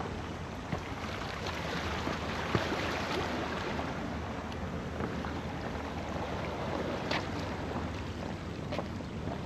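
Rain falling steadily, with scattered ticks of drops striking nearby surfaces.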